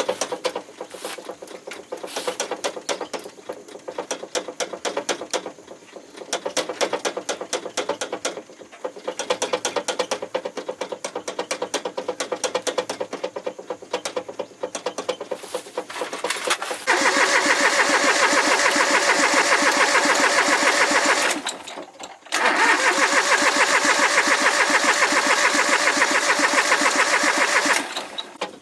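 An engine running with a rapid, uneven pulsing beat, then running much louder from about 17 seconds in, cutting out for a moment around 22 seconds before picking up again.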